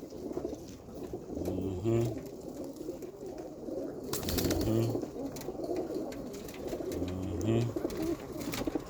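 Roller pigeons cooing, three low coos about three seconds apart, with a brief rustling burst about four seconds in.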